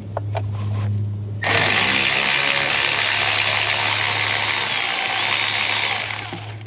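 A power tool runs steadily for about five seconds, starting abruptly about a second and a half in and fading out near the end, as it backs out a bolt holding the ignition coil pack.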